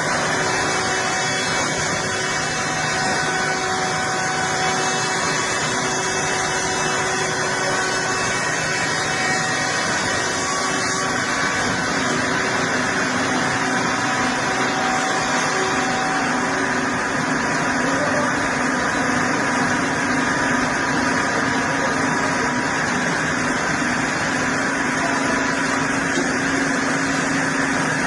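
An engine-driven machine running steadily at an even level.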